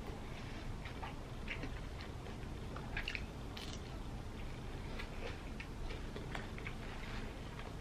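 Close-up wet mouth clicks and smacks from chewing a sandwich and licking sauce off fingers, scattered irregularly over a low steady hum.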